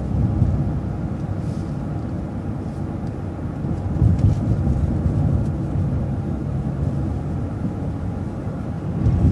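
City transit bus driving, heard from inside: a steady low engine and road rumble, swelling louder a few times.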